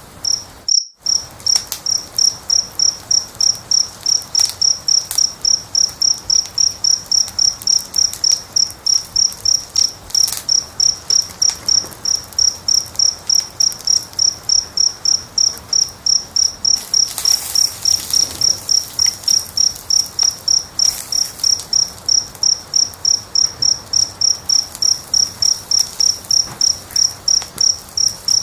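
A cricket chirping steadily in even pulses, about three chirps a second, the loudest sound throughout, over the faint crackle and pops of a wood fire. Everything cuts out for a moment about a second in.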